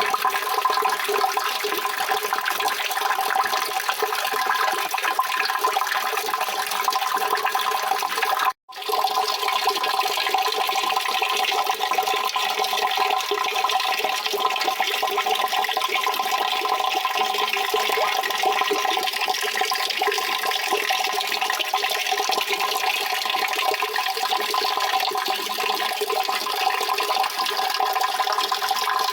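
Steady rushing water, an even wash with a resonant hum in it; it cuts out for a split second about eight and a half seconds in, then resumes.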